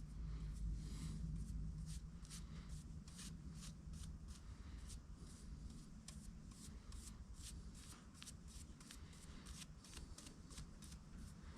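Paintbrush strokes on a piece of wood: many short, scratchy brushing sounds, about two or three a second, over a low hum.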